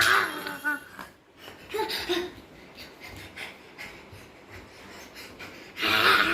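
A person's breathy, wheezing sounds, with a short voice sound at the start and a louder breathy rush near the end.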